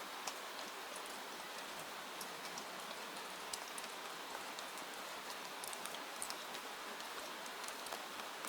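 Steady rain falling, an even hiss with scattered small, sharp drop-like ticks.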